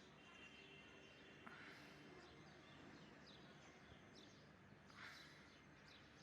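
Near silence with faint bird chirps now and then over a low background hiss.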